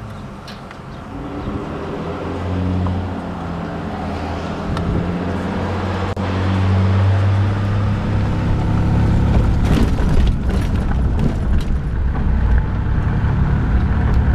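Car engine and road noise heard from inside the moving car. The engine pulls harder and grows louder over the first half, then the ride turns to a heavier rumble with scattered knocks and rattles, as the tyres run onto a rough dirt road.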